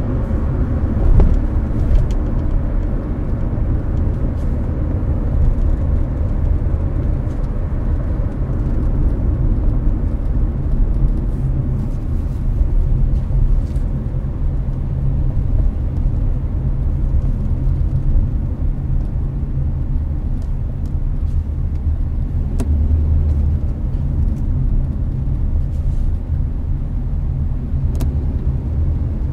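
Hyundai Avante cruising on a highway, heard from inside the cabin: a steady low road and tyre rumble with the car's air conditioner blowing, and a few faint ticks.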